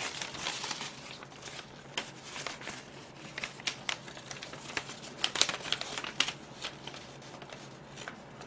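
Paper rustling and crinkling as letters and gift wrapping are handled, with scattered small taps and clicks throughout.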